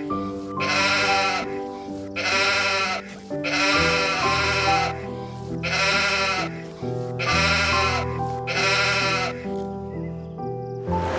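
Sheep bleating six times in a row, each call about a second long with a wavering pitch, over background music.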